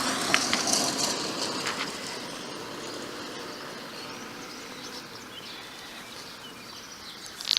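Steady outdoor background hiss that slowly fades, with a few faint clicks in the first two seconds.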